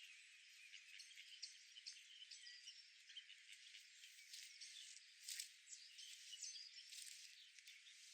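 Faint outdoor ambience: a steady high hiss with scattered short, high chirps and ticks throughout.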